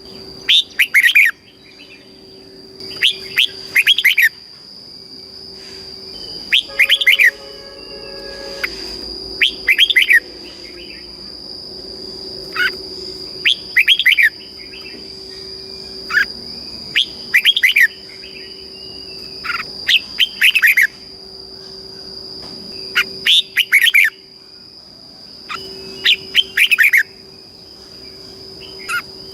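Red-whiskered bulbul singing short phrases of quick, clear whistled notes, repeated every two to three seconds. A steady high-pitched whine runs underneath.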